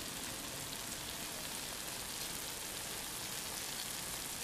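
Brinjal pickle in oil sizzling softly in a hot kadai, a steady, even crackle, on residual heat after the flame is turned off.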